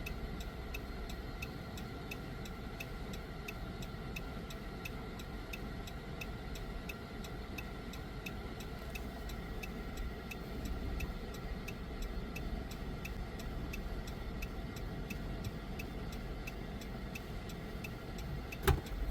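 A car's indicator relay clicking steadily inside the cabin, about two to three clicks a second, over a low engine and road hum.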